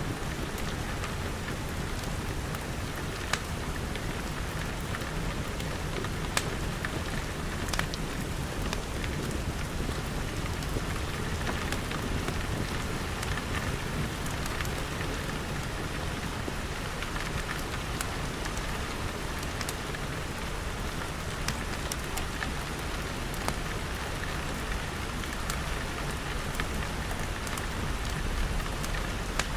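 Steady rain pattering on glass walls and roof, with scattered sharp ticks of single drops or crackles over a steady low rumble.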